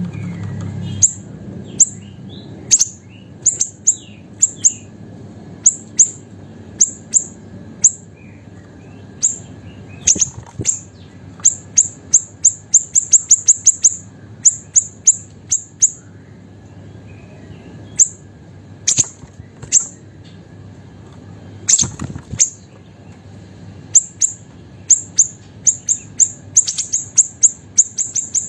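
A small siri-siri songbird calling vigorously in very high, sharp, short notes, some single and some in rapid runs of several notes a second.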